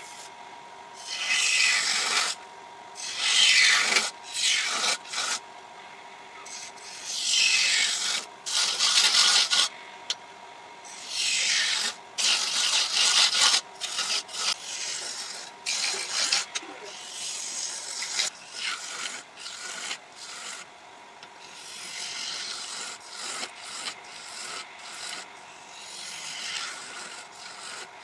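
A turning tool cutting a spinning wooden blank on a lathe, in repeated scraping passes of about a second each, some sweeping in pitch, over a faint steady tone.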